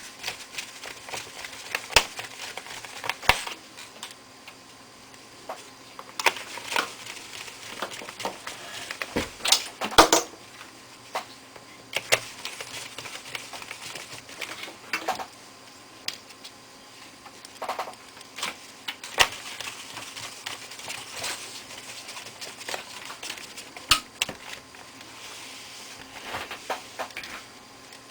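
Irregular clicks, taps and light scrapes of a laptop's plastic casing and small screws being handled and fitted during reassembly, the sharpest knocks about 2, 10 and 19 seconds in.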